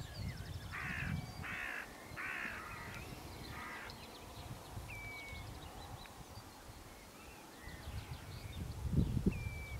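Wild birds calling: four harsh, rasping calls in the first four seconds, then a few short, thin whistled notes.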